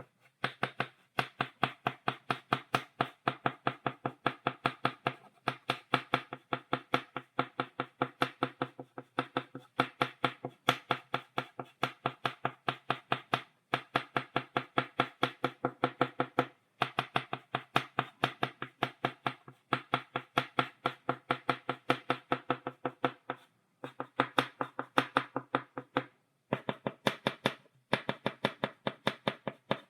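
Chalk tapped against a blackboard, stippling dots: a fast, even run of sharp taps, several a second, broken by a few brief pauses.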